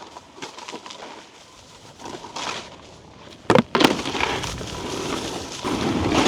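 Snowboard boots crunching on icy snow in uneven steps while walking back uphill, with a sharp, loud knock about three and a half seconds in and a louder stretch of scraping snow near the end.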